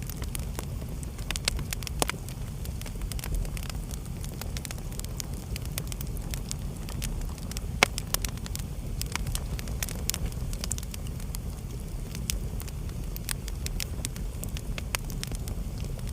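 Wood fire burning in a fireplace: a steady low rumble of flames with frequent sharp crackles and pops scattered irregularly, a louder pop about 8 seconds in.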